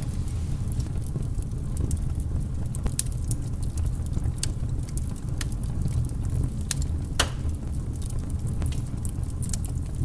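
Wood-fire crackling sound effect from a model electric fireplace: irregular sharp pops and snaps over a low steady rumble, with one louder snap about seven seconds in.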